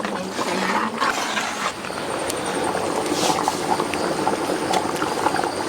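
Chicken curry gravy bubbling in a pot on a wood-fire stove: a steady simmer with many small pops.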